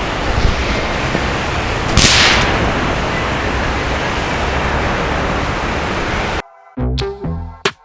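Steady loud rushing noise, like wind on the microphone, with a few sharp cracks and a louder hissing burst about two seconds in. About six seconds in it cuts off abruptly and electronic music with a beat begins.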